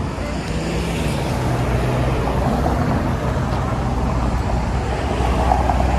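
Road traffic: a motor vehicle's engine running with a steady low rumble, getting a little louder near the end.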